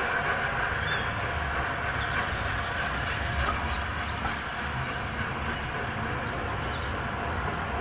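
Steam-hauled passenger train moving slowly away, its coach wheels running steadily over the track and pointwork, the sound slowly fading.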